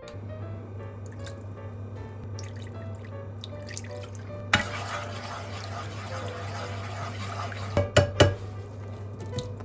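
Water running steadily from a kitchen tap, starting about four and a half seconds in, with a couple of knocks near the end. Background music plays throughout.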